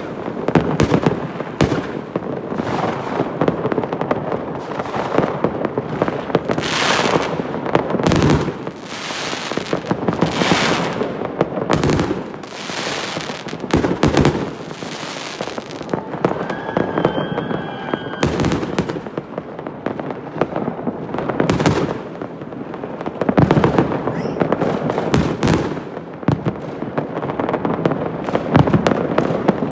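Fireworks going off in quick succession: many sharp bangs and crackles, with a few larger bursts.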